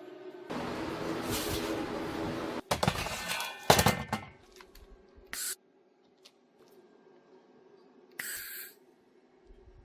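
Metalworking on steel square tube: a power tool runs for about two seconds, then several sharp metal clanks and knocks follow, with a short hiss near the end.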